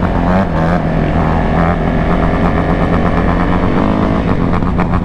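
Dirt bike engine running steadily close by, with small rises and falls in pitch.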